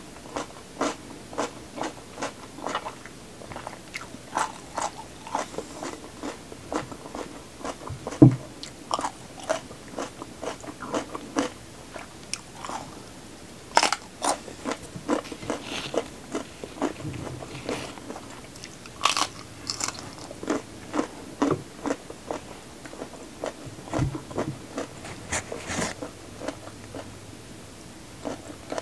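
Close-up crunching bites and chewing of crisp raw vegetables, sharp crunches coming a few times a second with several louder bites along the way. One low thump, the loudest sound, about a quarter of the way in.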